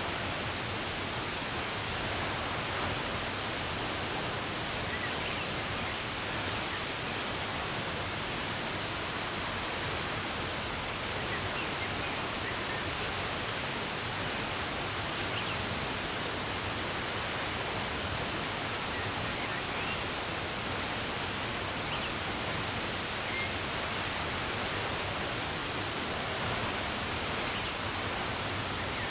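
Running water flowing steadily, with a few faint, short bird chirps scattered over it.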